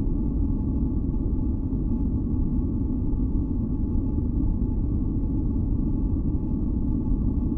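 Steady, deep masking noise from a relaxation track, with a few faint held tones above it; it does not change at all.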